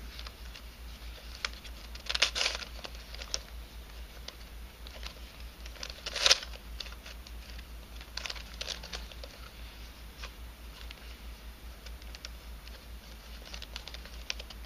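Clicks and scrapes of a 3D-printed nylon twisty puzzle being turned and handled, its pieces rubbing and knocking as they move. A short clatter comes about two seconds in and the sharpest click a little after six seconds.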